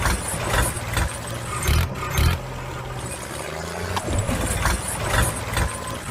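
Heavy vehicle engine sound idling with irregular rattles and knocks. The pattern repeats about every four seconds, like a looped engine sound effect.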